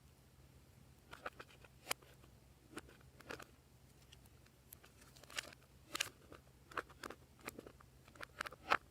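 Glossy slime being worked by hand, making irregular small clicks and pops that come more often in the second half.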